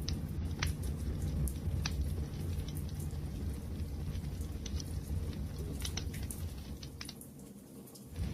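Wood fire crackling: a low, steady rumble of burning with scattered sharp pops and snaps. Near the end the sound dips quieter for about a second, then returns.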